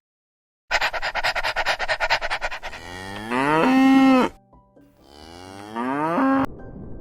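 Cow mooing twice, each call rising in pitch and then holding steady, the second cut off abruptly. A fast rattling run of pulses leads into the first moo.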